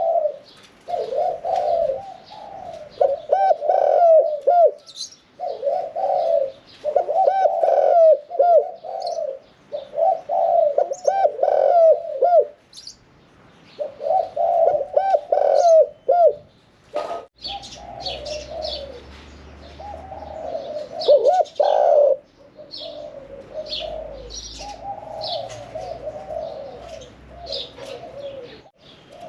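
Spotted dove cooing over and over, its phrases a few seconds long with short pauses between them, in the medium-pitched 'one-kuk' throw style that keepers breed for. Small birds chirp higher up in the background.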